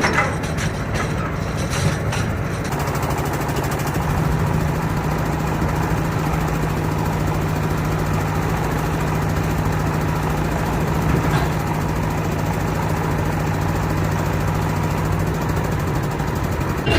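A boat's engine running steadily: a constant low hum under an even wash of noise, its tone shifting slightly about three seconds in.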